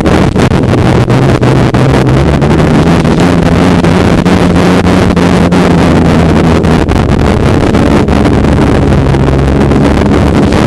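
Snowmobile engine running steadily under way, loud and close, with wind rushing over the microphone.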